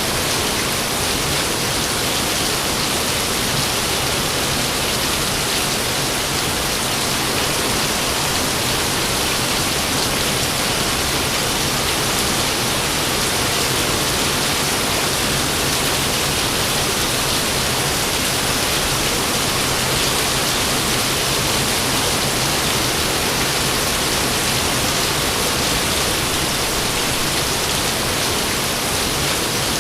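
Rain falling steadily, an even hiss that holds at one level throughout, with no thunder.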